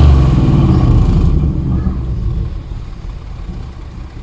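Ford Mustang GT's V8 through a decatted, straight-piped mid-section exhaust: a rev falls away in the first second or so, then the engine settles to a low idle rumble.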